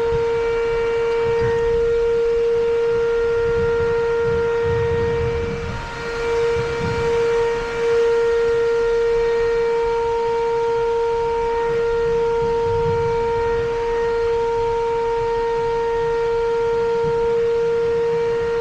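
A steady electronic buzzing tone holds one pitch without a break, with some low thumps and rumbles beneath it.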